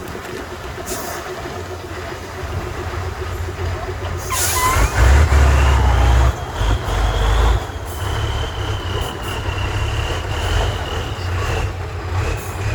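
Heavy off-road trial truck's diesel engine working, growing louder under load for a few seconds after a short hiss of air about four seconds in. A steady high whine runs through the second half.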